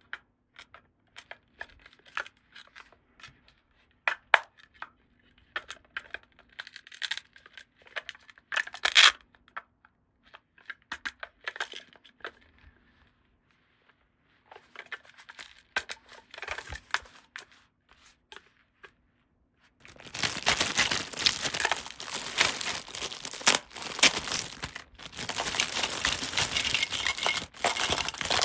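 Toy packaging being handled and unwrapped: scattered crinkles and light clicks, then from about twenty seconds in, some eight seconds of continuous crinkling and tearing.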